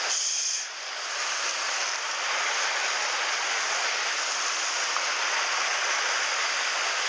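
Mountain stream water rushing steadily, a constant even hiss of flowing water.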